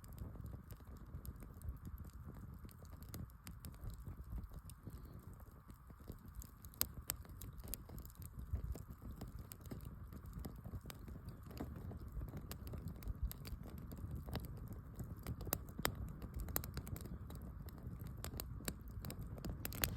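Campfire crackling: irregular sharp snaps and pops over a low steady rumble.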